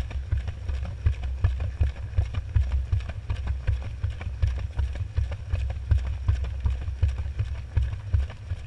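Washing machine drum turning a small wash load, heard from inside the drum through a waterproof camera housing: a low rumble with frequent irregular knocks and thumps.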